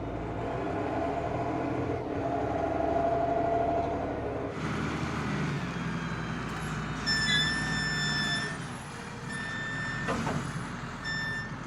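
Heavy diesel vehicle engine running steadily; after a sudden change about four and a half seconds in, machinery keeps running with intermittent high-pitched beeps from about seven seconds in.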